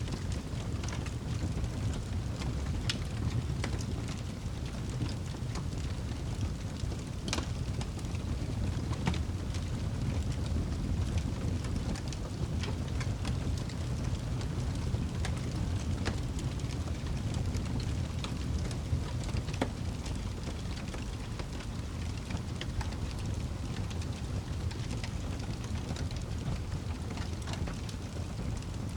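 Campfire burning: a steady low rumble with irregular sharp crackles and pops from the wood, several a second.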